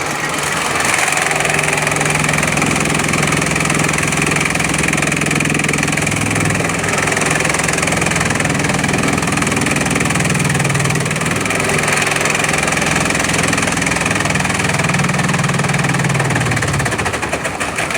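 Bamboo chipping machine running steadily under engine power, with a steady hiss over a low engine hum whose pitch shifts a few times; the low hum drops away shortly before the end.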